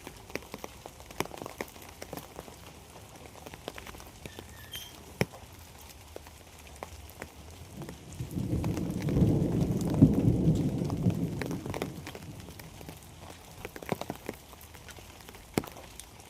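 Rain falling, with many separate drops tapping sharply on nearby surfaces over a steady patter. Around the middle a low rumble swells up and dies away over about four seconds.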